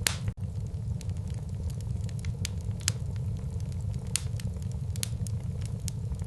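Wood fire burning in a fireplace, crackling with frequent sharp pops of varying loudness over a steady low rumble. A few pops stand out, one right at the start and others about three and four seconds in.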